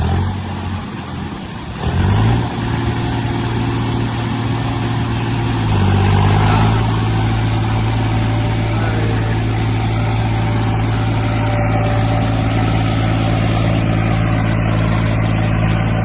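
Tractor diesel engine revved up hard under load: it climbs about two seconds in, rises again near six seconds, then holds at high revs. This is a renewed attempt to pull a stuck load free.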